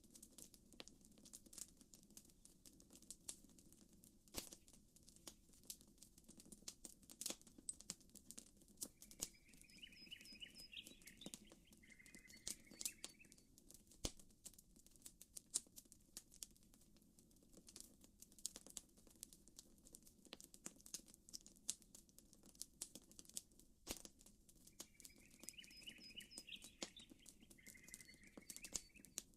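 Campfire crackling with frequent sharp pops over a low, steady wash of gentle water. A short warbling bird call comes twice, about ten seconds in and again about twenty-five seconds in.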